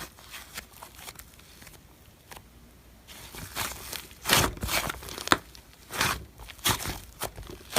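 Slime being squeezed and pressed by hand, giving scattered pops and crackles that grow louder and more frequent about halfway through.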